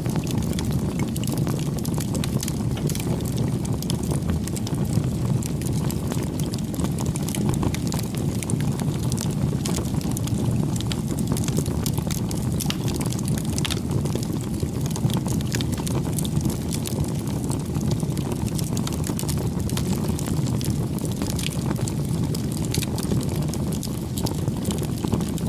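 Campfire burning: a steady low rush with frequent small crackles and pops of burning wood scattered throughout.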